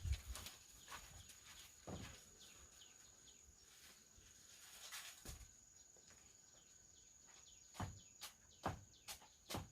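Faint outdoor ambience: a steady high insect drone, with scattered light knocks and rustles that grow more frequent near the end.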